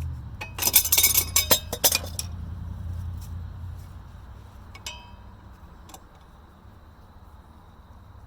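A quick run of sharp metallic clinks and clanks, like metal parts or tools knocking together, starting about half a second in and lasting under two seconds. Two single clinks follow around five and six seconds in, the first ringing briefly. A low hum fades out over the first four seconds.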